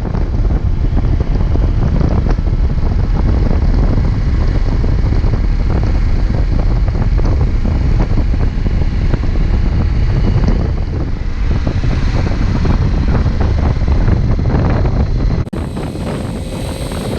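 Heavy wind rumble and buffeting on the microphone over vehicle noise, as when riding a motorcycle at speed. About 15 seconds in it cuts abruptly to a slightly quieter vehicle noise with a faint steady tone.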